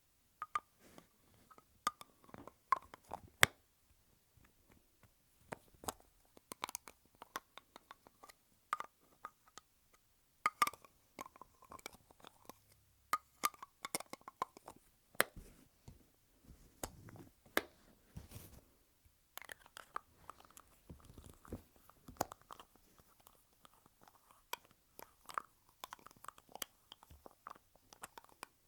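Lipstick tubes handled close to the microphone: caps pulled off and pushed back on, giving many irregular sharp clicks and snaps with small rubbing squeaks between them.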